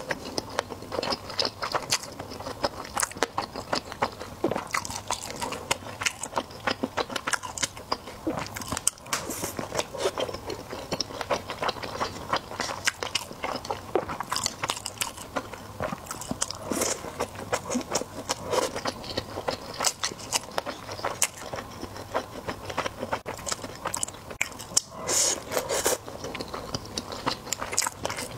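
A person chewing a mouthful of sushi: a continuous, irregular run of small mouth clicks and smacks.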